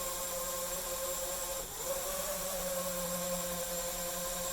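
Electric thruster motors of a small spinning-body UAV whining steadily in flight, with the pitch dipping and wavering briefly a little under two seconds in.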